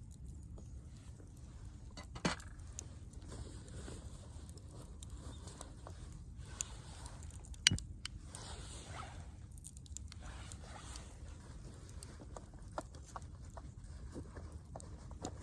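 Wood fire burning in a campfire stand, with scattered small crackles and two sharper pops, about two seconds in and near the middle.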